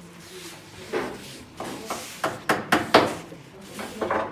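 A series of sharp knocks and clatters, several in quick succession, the loudest about three seconds in.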